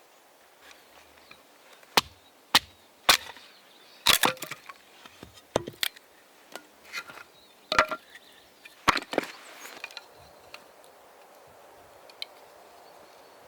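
Dry firewood being broken up: a string of sharp, irregular cracks and splintering snaps from about two seconds in until about nine seconds in, with a couple of faint ticks after.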